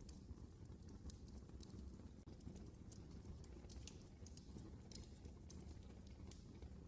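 Wood fire crackling in a fireplace: irregular sharp pops and snaps over a faint low steady rumble.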